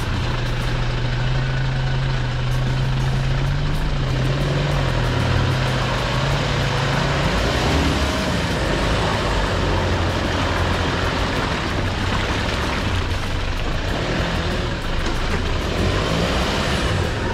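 A four-wheel-drive vehicle's engine running low and steady, its low drone wavering in pitch for the first several seconds. A constant rushing noise lies over it.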